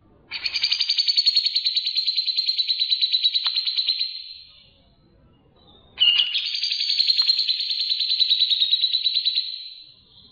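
A songbird giving two long, rapid trills of fast repeated notes, each lasting about four seconds, the second starting about two seconds after the first ends.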